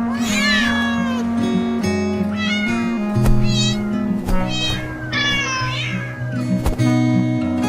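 A cat meowing about five times in a row, each meow a short call that rises and falls in pitch, over background music of steady held notes.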